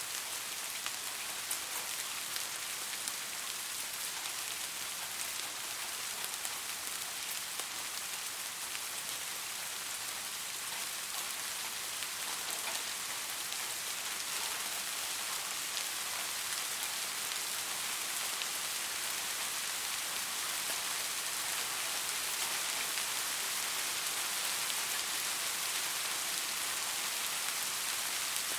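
Steady rain falling, an even hiss with fine scattered drop patter, growing slightly heavier in the second half.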